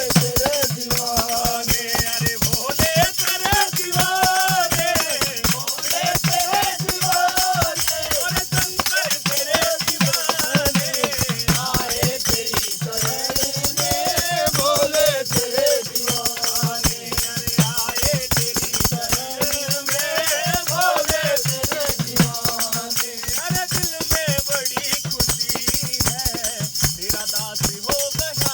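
Group of men singing a Hindu devotional bhajan in unison, with a wavering melody over fast, steady jingling and rattling hand percussion.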